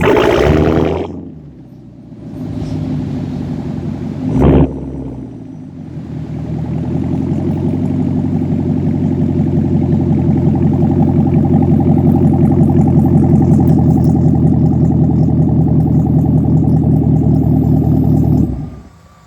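Straight-piped exhaust of a 2019 Camaro SS 1LE's 6.2-litre V8. A loud rev dies away at the start, then comes a short sharp blip about four and a half seconds in. After that a steady drone builds over several seconds, holds, and cuts off suddenly near the end.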